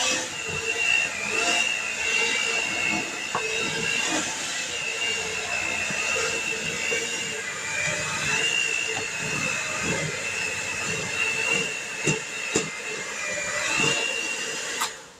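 Electric mixer running in thick peanut butter batter, its motor whine steady but dipping in pitch now and then as it bogs down, with a few sharp knocks near the end; it shuts off just before the end.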